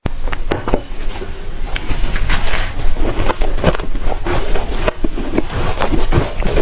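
Crunching and chewing of soft, fluffy shaved ice in the mouth: a dense, irregular run of crisp crackles and snaps.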